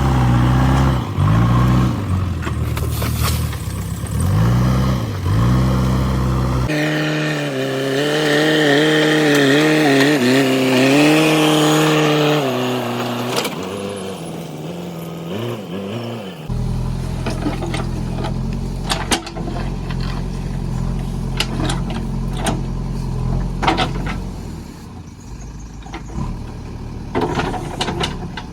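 Diesel engine of a JCB 3DX backhoe loader running under working load, its pitch rising and falling as the hydraulics are worked. Sharp metallic knocks come through in the last part.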